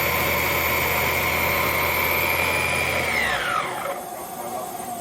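Vax Blade 4 cordless stick vacuum cleaner running with a steady high whine and low hum, its brush mode on. About three seconds in it is switched off and the motor winds down with a falling whine.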